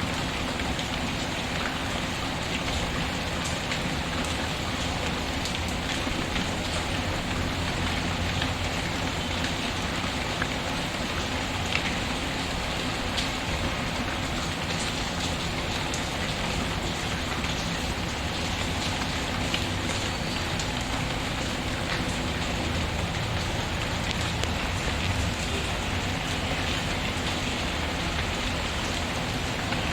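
Steady rain patter mixed with a crackling fireplace, with scattered small pops and clicks throughout.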